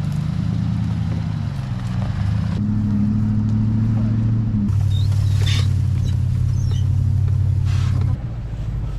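Truck engine running under load on a steep rough trail, its pitch jumping up and then down a few times, with a few short higher noises around the middle.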